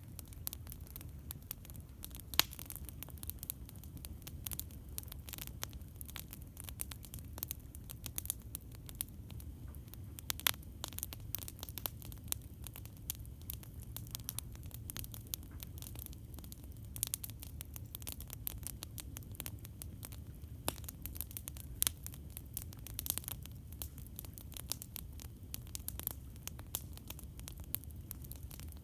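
Campfire crackling: a dense run of small irregular crackles and snaps with an occasional louder pop, over a steady low rumble.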